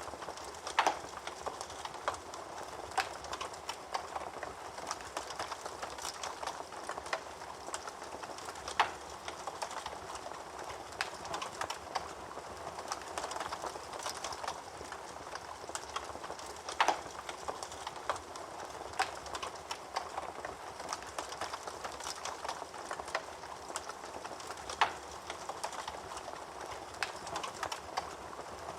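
Wood fire burning in a fireplace: steady crackling, with a few louder sharp pops about every eight seconds.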